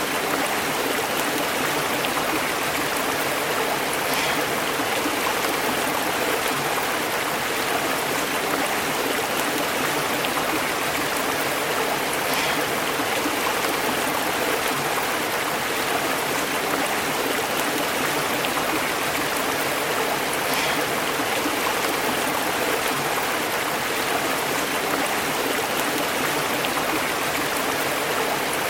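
Shallow stream burbling and bubbling over rocks, a steady rush of flowing water.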